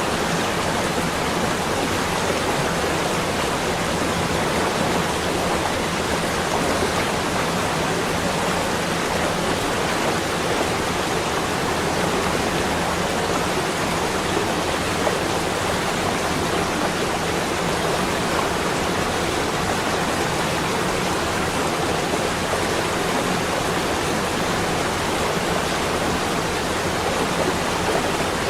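Steady, even rushing ambient noise with no separate events or changes.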